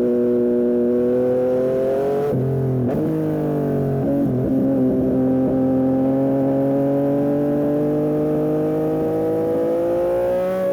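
Yamaha MT-09 SP's three-cylinder engine through an aftermarket Dominator exhaust, pulling under load while riding. Its pitch breaks briefly twice, about two and four seconds in, then climbs slowly and steadily as the bike accelerates.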